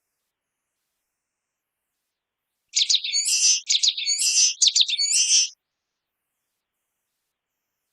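Common waxbill singing one short, high-pitched song phrase of about six quick notes, starting about three seconds in and lasting just under three seconds.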